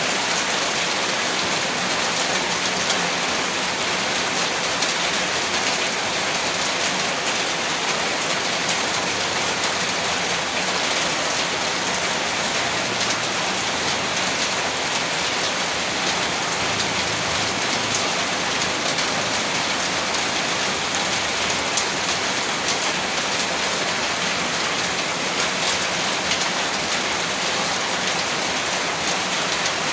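Heavy rain falling steadily, a dense, unbroken hiss of rain on surfaces with individual drops just picked out in it.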